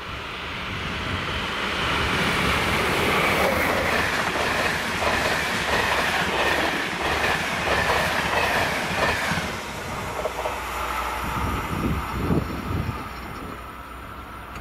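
A train passing on the line, building to a loud rush with a high whine over the first couple of seconds. The rush eases off after about ten seconds into a run of wheel clicks over the rail joints.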